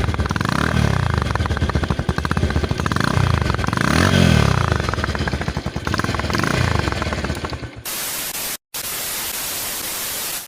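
Bajaj Pulsar 150 motorcycle engine revved again and again, its pitch rising and falling, through a silencer fitted with a body-spray cap insert to make it louder. About eight seconds in it gives way to a steady hiss of static, broken by a short gap.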